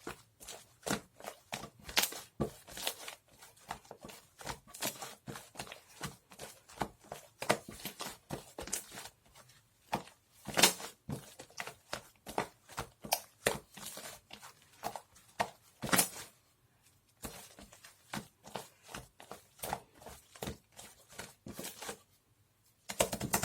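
Close handling sounds: quick, irregular clicks, taps and crinkles, several a second, with a couple of short pauses.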